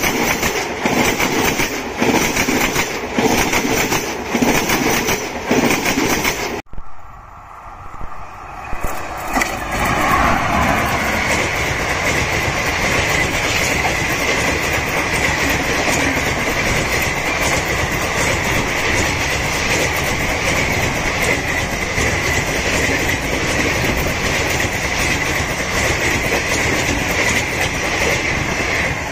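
Indian Railways passenger train running past, its wheels clattering in a regular beat over the rail joints. About seven seconds in the sound cuts to another passing train: a steady loud rush with a high whine held over it.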